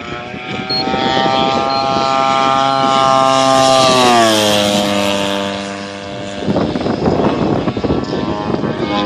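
The twin-cylinder two-stroke DA-120 gasoline engine of a 35% scale Extra 300 RC aerobatic plane flying past. The engine note holds steady, then drops in pitch as the plane passes by, and cuts away about six and a half seconds in.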